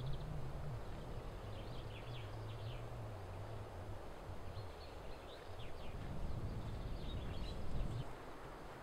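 Small birds chirping in several short, high clusters over a low, steady outdoor rumble.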